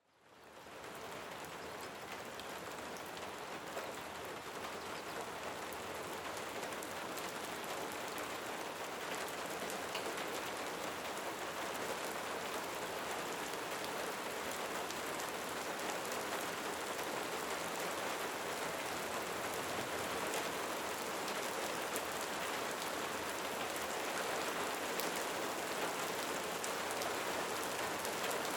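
Steady rain falling, a dense hiss dotted with the ticks of individual drops, fading in from silence over the first second.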